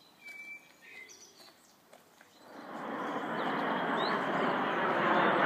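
Birds chirping faintly, then from about two and a half seconds in the engine noise of a formation of four aircraft flying over, swelling steadily louder.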